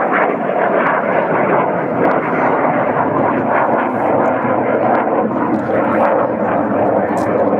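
Aircraft engine noise, loud and steady, from an aeroplane flying past at an air show display.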